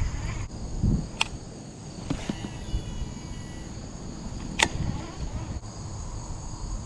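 Steady high-pitched insect chorus over a low outdoor rumble, broken by a few sharp clicks and a faint falling whir partway through.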